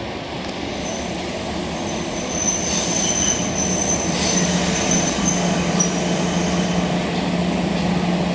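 Kintetsu Osaka Line local electric train arriving and braking to a stop alongside the platform. Thin, high brake and wheel squeals come in about two seconds in and fade again, over a low steady drone that grows louder as the train draws alongside.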